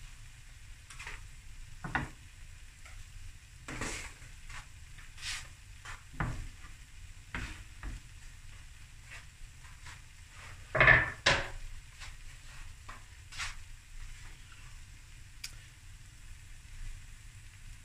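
Boerewors fried rice sizzling faintly and steadily in a steel pan on the hob, with scattered knocks and clatters of kitchenware. The loudest is a pair of knocks about eleven seconds in.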